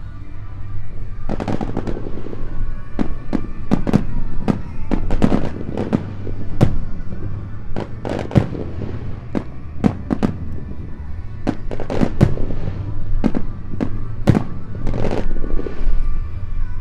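Aerial firework shells bursting in quick succession, dozens of sharp booms beginning about a second in, over background music.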